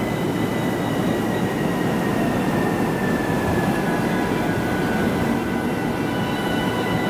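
E217 series electric train standing at the platform with its doors open, its onboard equipment giving a steady low hum, with several faint high whining tones over it, one slowly falling in pitch.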